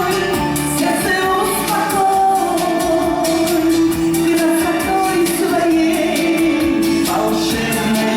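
A song with singing over instrumental accompaniment, the melody carried in long held notes.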